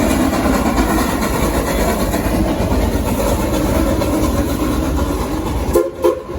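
Train running on the rails, heard from aboard: a steady rumble of cars rolling over the track with a clickety-clack. A short, sudden change comes near the end.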